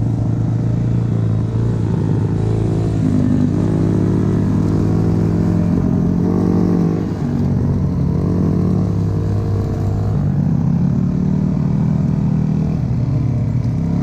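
Four-stroke dirt bike engine running loud, revving up and easing off a few times, with the pitch rising about three seconds in and again around eight seconds in.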